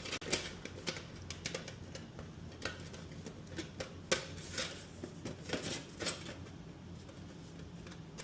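Thin aluminum flashing crinkling and scraping as it is worked into the grooves of a plastic displacer model, with irregular clicks and ticks.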